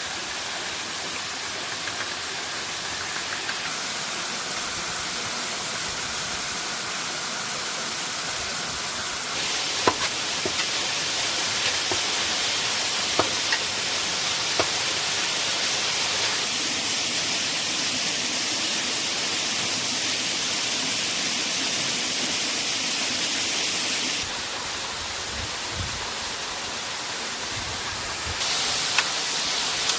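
Steady rushing of a waterfall, with a few sharp knocks or taps standing out briefly near the middle and once near the end.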